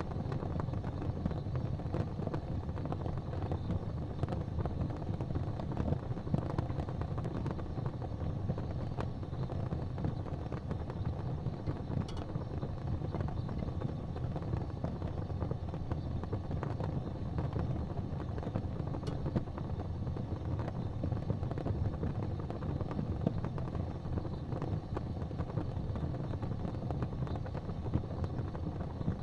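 Wood fire burning in an open fireplace: a steady low rumble of flames with scattered sharp crackles and pops from the logs.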